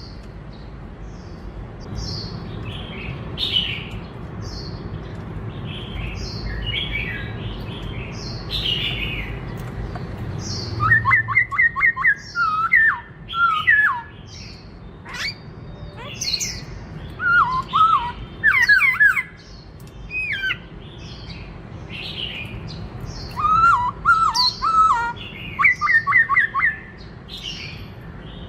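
Black-throated laughingthrush (khướu bạc má) singing a varied song of quick high chirps and squawks. About a third of the way in it adds fast runs of clear whistled notes. A low background rumble underneath stops at about the same point.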